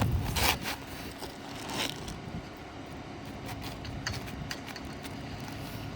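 A roof shingle scraping and rustling as it is slid back into place under the course above: two short scrapes, one near the start and one about two seconds in, then a few faint ticks over a steady low rumble.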